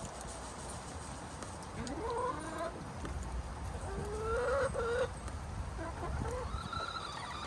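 Backyard hens calling: three drawn-out calls, each rising in pitch, about two, four and six and a half seconds in.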